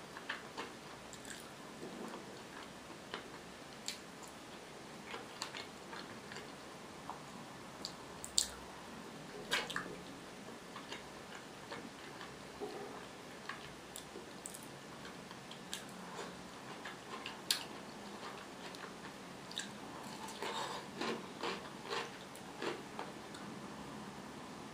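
Close-miked eating sounds: scattered wet mouth clicks and smacks while chewing fried potatoes and pickles, with a few louder crisp bites, several of them close together near the end.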